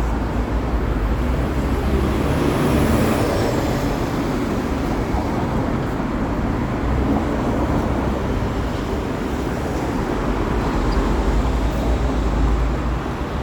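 Steady city road traffic: a continuous rumble of passing cars and buses, with a brief high falling squeal about two seconds in.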